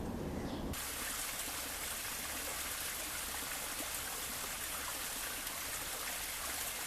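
Running water, like a stream or small falls: a steady rushing hiss that starts abruptly about a second in.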